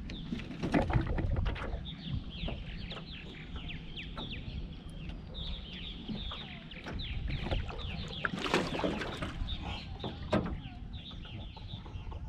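Hooked largemouth bass being played at the boat, splashing at the surface about eight and a half seconds in and again briefly near the end, over a steady run of short, high, falling squeaks.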